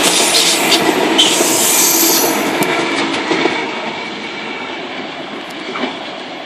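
Sydney Trains Tangara double-deck electric train passing close by, its wheels running over the rails. The sound is loud for about the first two seconds, then fades steadily as the last cars go by and the train moves away.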